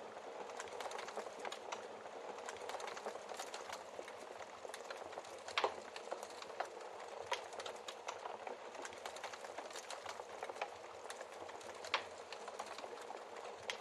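Wood fire crackling in a fireplace: a steady hiss of the flames under dense small crackles, with a few louder log pops, the sharpest about halfway and again near the end.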